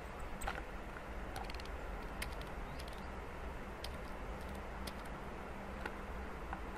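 Steady low outdoor rumble with faint, irregular small ticks and clicks scattered through it.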